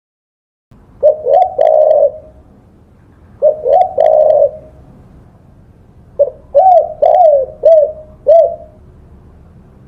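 Spotted dove cooing after a moment of silence: two drawn-out coo phrases, then a run of five shorter coos, over a faint low hum.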